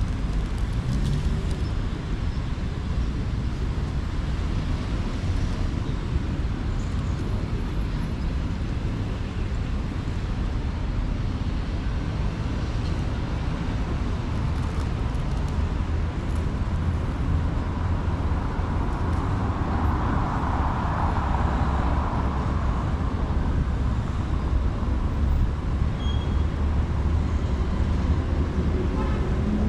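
City street traffic: a steady low rumble of engines and tyres, with one vehicle passing more loudly about two-thirds of the way through.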